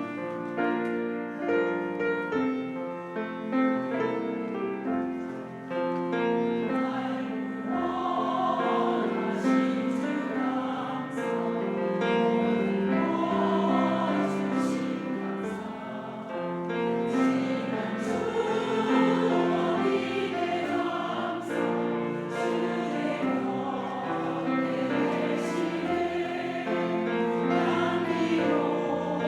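Church choir singing a hymn anthem in parts with piano accompaniment. The piano plays alone for the first several seconds, and the choir's voices come in about six or seven seconds in.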